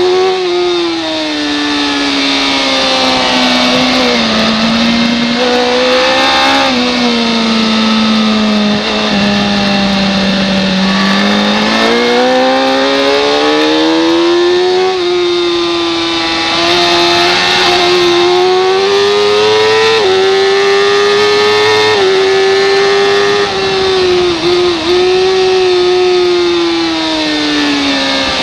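Race motorcycle engine running hard, its pitch rising with the throttle and dropping back several times as the bike slows and accelerates, with a couple of brief cuts near the end.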